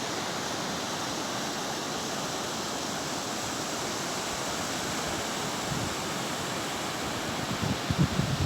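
Steady rush of sea surf breaking on a beach, with wind buffeting the microphone in low gusts near the end.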